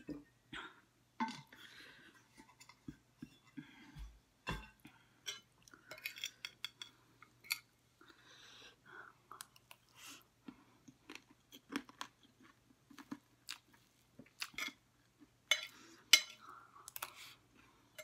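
Close chewing and crunching of chatpate, a spiced Nepali puffed-rice snack, mixed with metal cutlery scraping and clinking on a ceramic plate. There are many sharp clicks throughout; the loudest comes about 16 seconds in.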